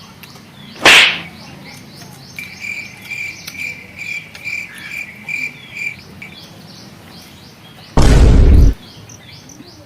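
Birds and insects chirping, with short repeated falling chirps and a steady pulsed high trill for a few seconds. A loud bump comes about a second in, and a longer, louder bump comes near the end.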